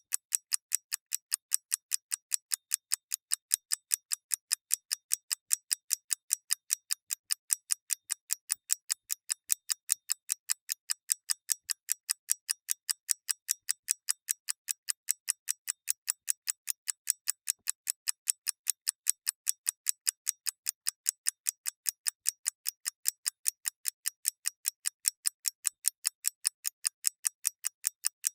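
Clockwork escapement ticking steadily and fast, about four to five crisp ticks a second that alternate slightly louder and softer, a thin bright tick with no low thud.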